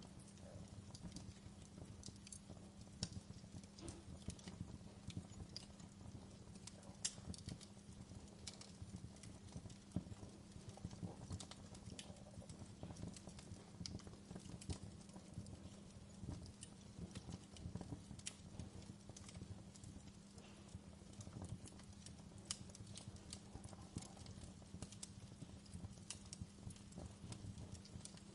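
Burning wood in a fireplace crackling, with irregular sharp pops and snaps over a low steady rumble. A few louder pops stand out, around three, seven and ten seconds in.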